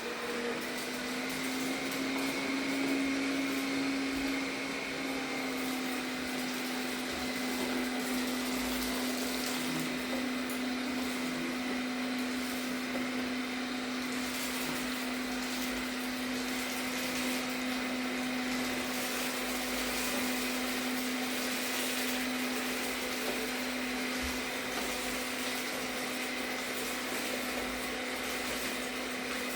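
Arnagar S8 robot vacuum cleaner running a cleaning pass: a steady motor whine over a low hum and hiss. Its pitch rises a little and settles within the first couple of seconds.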